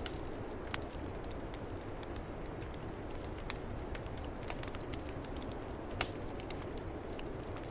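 Wood fire crackling in a fireplace, with scattered small pops and one sharper pop about six seconds in, over a steady low rush of snowstorm wind.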